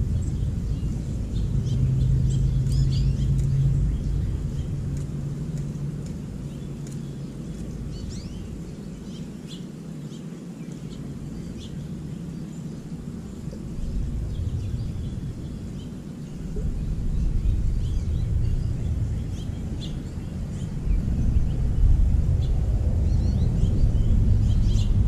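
Small songbirds chirping in short, high calls scattered throughout, over a low rumble that swells near the start and again toward the end and fades in between.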